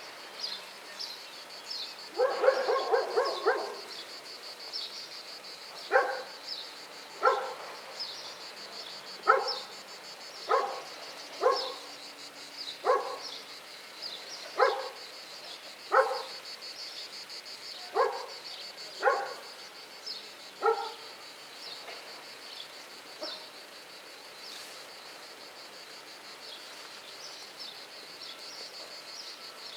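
A dog barking: a quick flurry of barks, then about eleven single barks at irregular intervals of a second or two. The barking stops about two-thirds of the way through.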